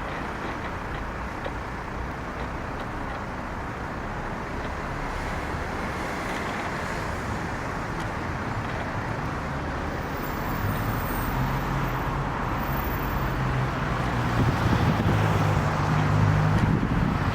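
Tow truck pulling a Scania CN230UB city bus approaching: steady road and tyre noise that grows slowly louder, with a low engine hum coming in about halfway through.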